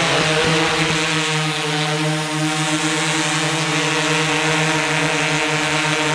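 DJI S800 hexacopter's motors and propellers running in flight, a steady droning buzz whose pitch wavers slightly. A few brief knocks near the start.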